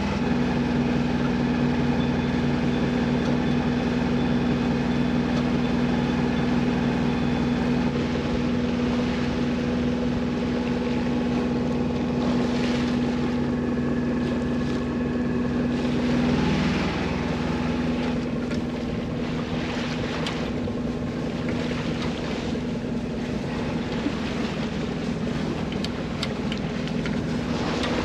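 A sailboat's inboard engine running steadily under way, motoring through a reef pass, with wind buffeting the microphone and water rushing along the hull. The engine's tone shifts slightly a little past halfway.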